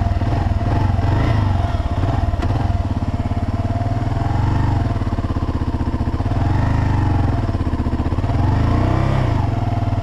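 Kawasaki KLR650 single-cylinder engine running, its speed rising and falling three times, about four and a half, seven and nine seconds in.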